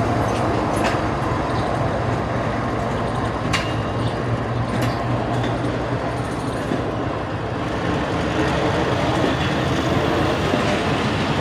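Pakistan Railways GEU-40 diesel-electric locomotive hauling a passenger train as it pulls out of a station under power, its engine drumming steadily beneath the rumble of the moving coaches, with a few sharp clicks from the wheels over rail joints.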